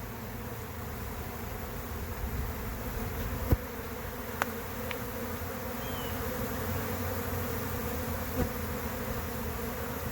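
Steady, dense hum of a honey bee swarm: thousands of bees in flight as the swarm leaves the hive. A single sharp click cuts through about three and a half seconds in.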